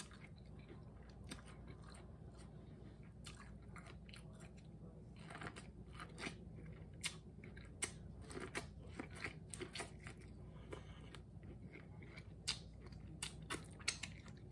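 Biting into and chewing corn on the cob: a run of short crunches and wet mouth clicks, coming more thickly from about five seconds in.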